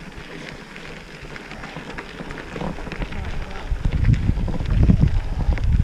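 Bicycle tyres crunching over gravel, with many small scattered ticks from the stones. Wind rumbles on the microphone and grows louder about two-thirds of the way through.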